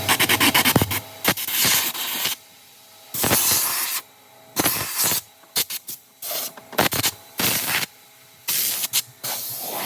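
A sprayer letting off hissing spray in repeated on-off bursts: a quick run of short squirts at first, then longer blasts of about a second with short gaps between them.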